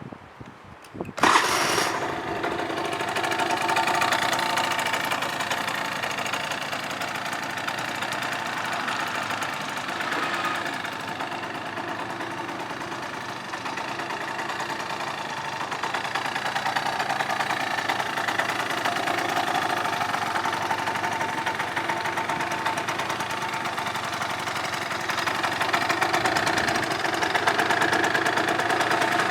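2004 Suzuki Address V100 scooter's small two-stroke single-cylinder engine starting: it catches about a second in and settles into a steady idle. It runs evenly, consistent with an engine in good condition.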